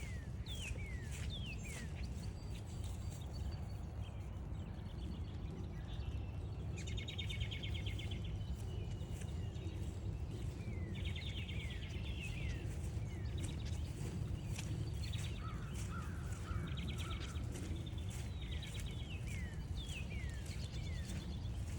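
Songbirds calling in the rain. Repeated falling whistled notes and several rapid trills lasting a second or two come over a steady low rumble of wind on the microphone. Many scattered light taps of raindrops are heard throughout.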